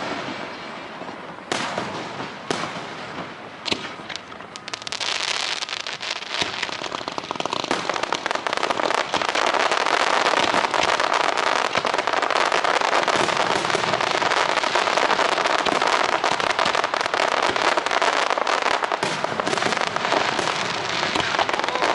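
Aerial fireworks: a few separate bangs, then from about six seconds in a dense barrage of rapid bangs and crackles that builds and holds steady.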